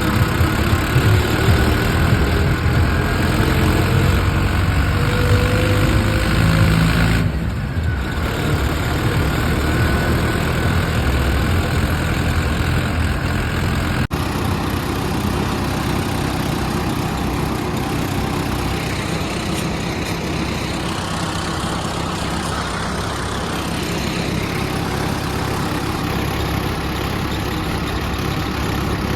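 Mahindra Arjun 555 tractor engine running steadily while pulling a loaded wood trolley. It is a bit louder at first and eases slightly about seven seconds in.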